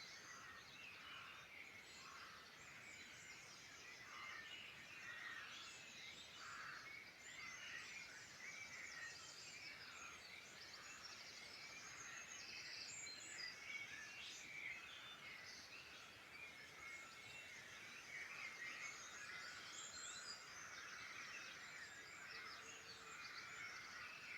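Faint chorus of many songbirds singing at once, a dense tangle of overlapping chirps and trills.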